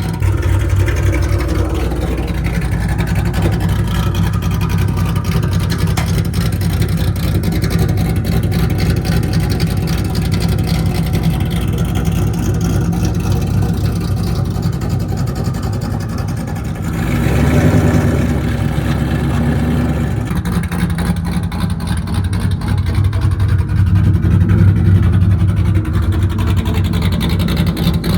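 S197 Ford Mustang drift car's engine idling loud and rough through its exhaust, warming up, with a brief rev about 17 seconds in.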